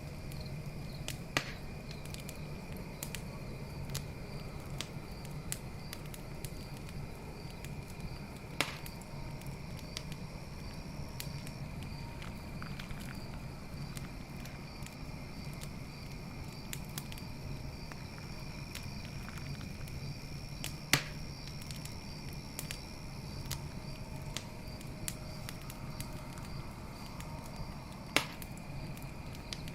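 Wood campfire burning with light crackling and four sharp pops spread through the stretch, over a low steady rush of the flames. Night insects chirp steadily in a high, pulsing trill behind it.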